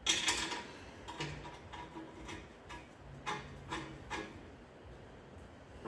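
Irregular light clicks and clinks of metal parts and hand tools being handled during engine assembly, the sharpest right at the start, with a faint low hum in the background.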